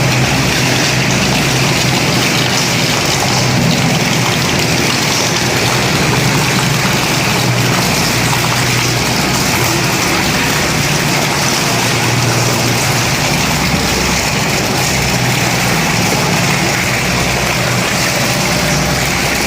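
Road roller's engine running steadily at a loud, even level.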